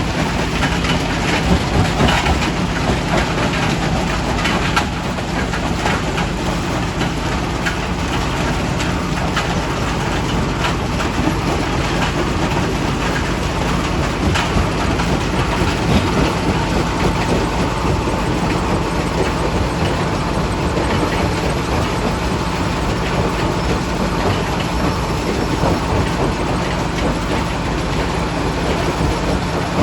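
Primary rock crusher running steadily with a constant low machine hum, over which rocks clatter and knock irregularly as they are broken.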